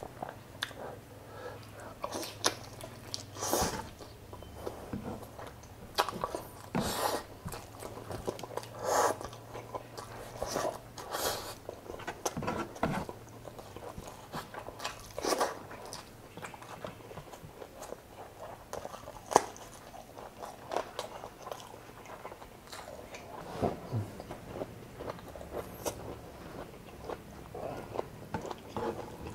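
Close-miked eating: a person chewing and biting mouthfuls of chicken adobo and rice, with irregular mouth clicks and a few louder bites.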